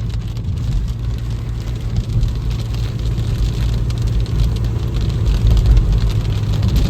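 Steady low road and engine noise inside a car driving through a thunderstorm, with rain on the car. It grows a little louder near the end.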